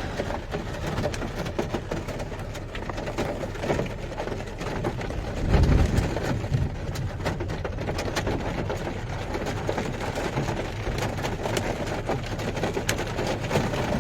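Rain and hail pattering steadily in many fine clicks, with wind buffeting the microphone in a low rumble about five and a half seconds in and again at the end.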